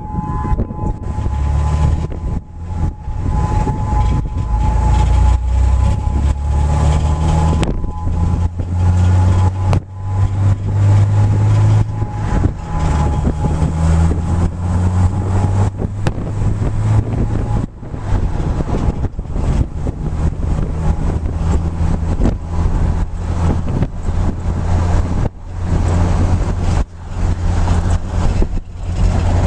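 Strong storm wind buffeting the camera microphone in loud, fluttering gusts. A steady tornado-siren tone sounds faintly behind it at first and fades out.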